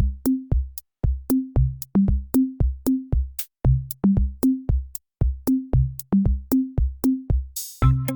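Background electronic music: a drum-machine beat of low kick-like thumps, each carrying a short bass note. A brief hissing sweep comes near the end, just before more instruments join in.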